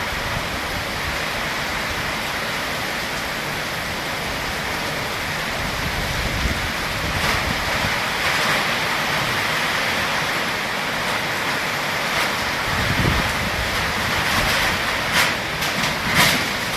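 Heavy downpour: a steady hiss of rain, with a few sharp taps near the end.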